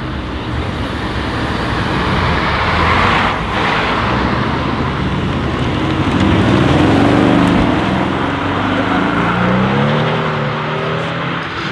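Mercedes-AMG GT Black Series twin-turbo V8 accelerating hard, with a brief drop in the sound about three and a half seconds in, then running on with its pitch rising and falling.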